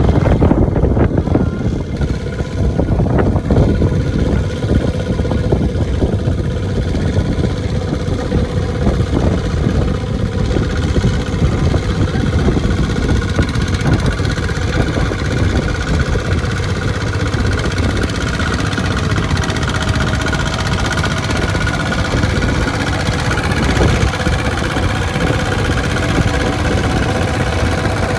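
Mini tractor's engine running steadily, a dense, even chugging with no breaks.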